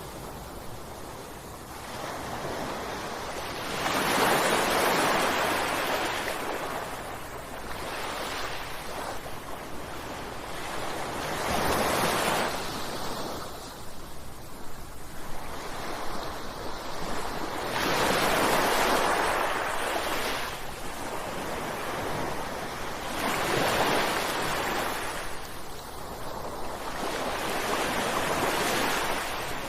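Ocean waves breaking on a shore, each wash of surf swelling and fading in turn, with about six breaking waves a few seconds apart.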